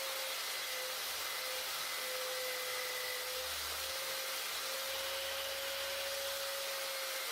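An electric motor, such as a power tool's, running steadily at an even pitch, with a hiss over it.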